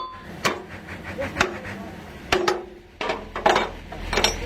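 Hand hammer striking metal in irregular blows, about six in a few seconds, with some ringing after each.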